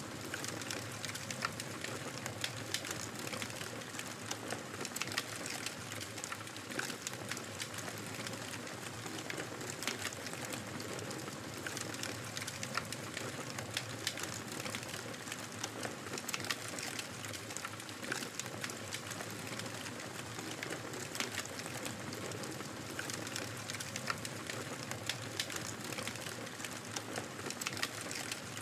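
Wood fire crackling in a fireplace: a steady hiss with frequent, irregular small pops and snaps.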